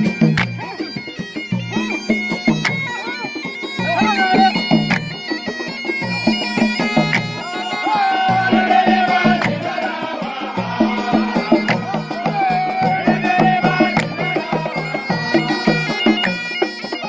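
Traditional Gulf sea music (funun al-bahr) played by a troupe: drums beat a steady rhythm under a sustained, wavering melody.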